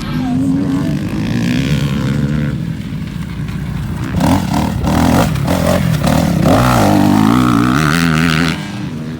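Motocross dirt bike engine running and revving, its pitch wavering up and down, with a few knocks and clatter about four to five seconds in. It climbs to a higher rev near the end, then drops off suddenly.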